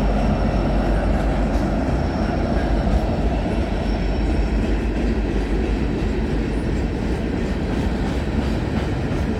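CN freight train rolling past: a steady rumble of steel wheels on the rails that does not let up.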